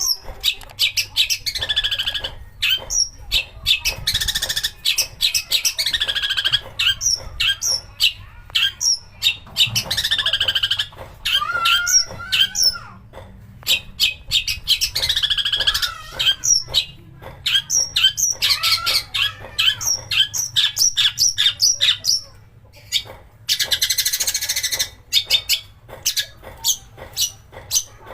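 Long-tailed shrike (cendet) singing in full voice: quick sharp ticking notes run through the whole passage, broken by harsh, scratchy phrases of a second or two.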